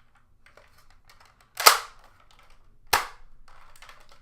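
Nerf Retaliator spring-powered dart blaster firing twice, a little over a second apart, the first shot the louder. Small faint clicks of handling come before the shots.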